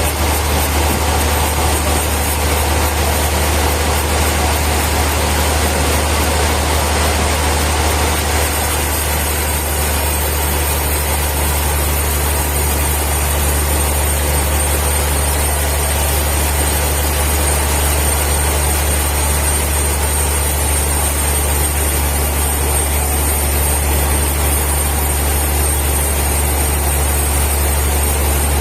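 Sawmill machinery running steadily with a deep, constant hum and a broad hiss over it; the hiss eases a little about eight seconds in.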